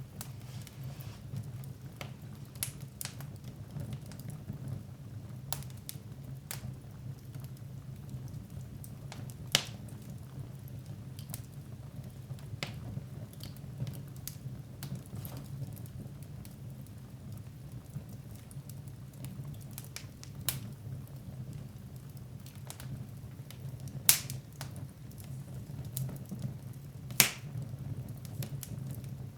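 Wood fire burning in a fireplace, crackling with scattered sharp pops over a low, steady rumble. A few louder pops stand out, about ten seconds in and twice near the end.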